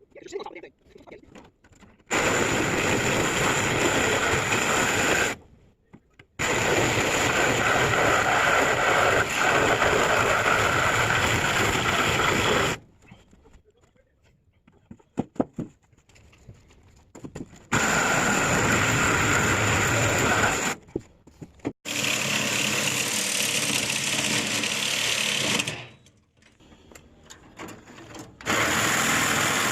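Handheld power tool run in five bursts of a few seconds each, starting and stopping abruptly, with a few light clicks in a gap near the middle.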